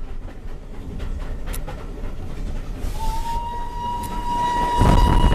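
Steam locomotive Black Prince, a BR Standard Class 9F, sounding one long steady whistle about three seconds in, heard from the carriage over the rumble of the train running on the rails. A loud rush of noise comes in near the end under the whistle.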